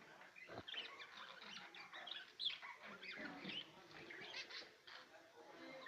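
A flock of caged budgerigars chirping and chattering, a dense stream of short chirps with no pause.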